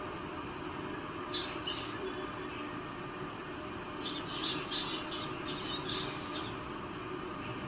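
Small birds chirping: a couple of short high calls about a second and a half in, then a quick run of chirps from about four to six and a half seconds, over a steady background hiss.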